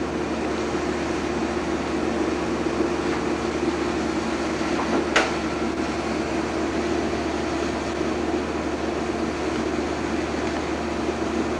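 Steady mechanical hum and whir, with a single sharp click about five seconds in.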